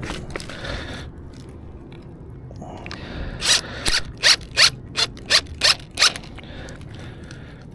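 A quick run of about eight sharp rasping strokes, roughly three a second, starting about three seconds in and stopping about three seconds later.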